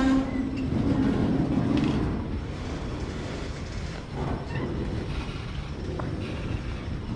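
Freight train rolling past, a continuous low rumble of wheels and cars on the rails with a short steady tone near the start.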